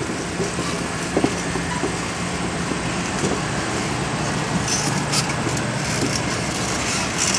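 Passenger train running by: a steady rumble with a low engine hum, a click about a second in, and a spell of sharp rattling clicks over the last few seconds.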